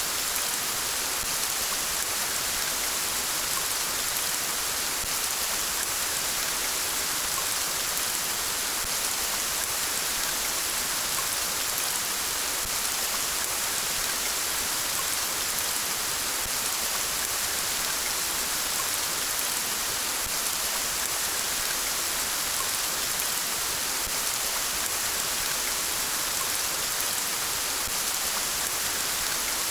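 Steady rain falling as an even, unbroken hiss.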